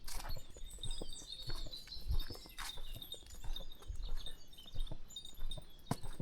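Footsteps of a person walking at a steady pace on a country path, about two steps a second, with small birds chirping in short high notes.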